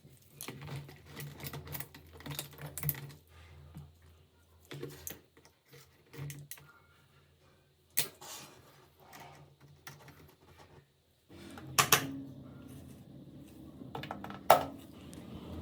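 Small hard parts and tools clicking and knocking in irregular runs, with a few sharper strikes. A steady machine noise comes in about two-thirds of the way through.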